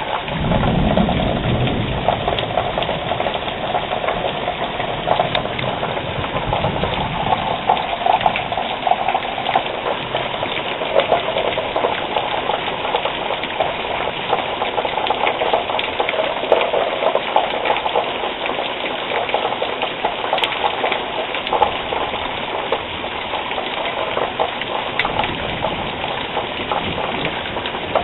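Heavy rain pouring down in a thunderstorm: a dense, steady hiss full of small splashes and drips. A low rumble sits under it in the first few seconds.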